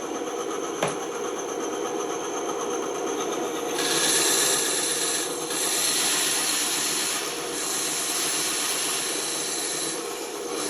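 Band saw running and cutting wood, with a single sharp click about a second in. About four seconds in the cut grows louder and hissier, easing off briefly twice.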